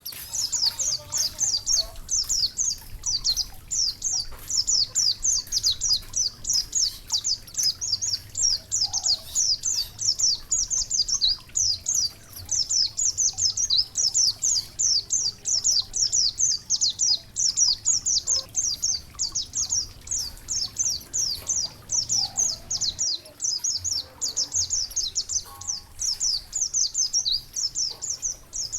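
Songbird singing a rapid, unbroken string of short, high chirps, many to the second.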